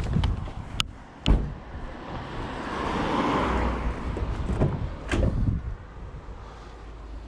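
A passing car's tyres hissing on a wet road, swelling and fading in the middle, with a few sharp knocks and clunks before and after it.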